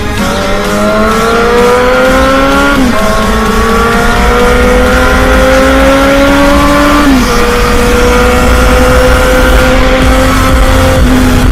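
Kawasaki Z1000's inline-four engine through a stainless-steel racing exhaust, accelerating hard. The pitch climbs steadily and drops sharply at two gear changes, about three and seven seconds in, then holds nearly steady.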